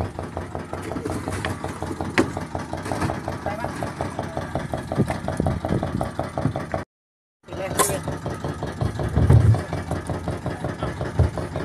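Boat engine running steadily with an even, fast beat, cut off for about half a second around seven seconds in.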